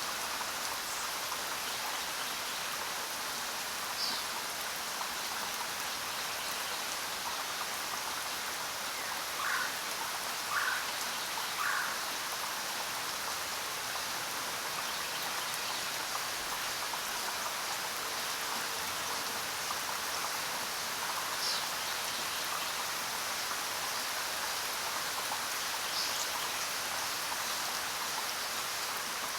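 Steady rain, with a few brief bird calls: three short calls about a second apart around ten seconds in, and a few single high chirps.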